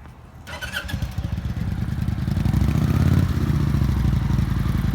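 Kawasaki Vulcan 900 Classic LT's V-twin engine starting about half a second in, catching and running. It revs up on its own to a raised idle around the third second and then holds: the automatic fast idle of a cold start.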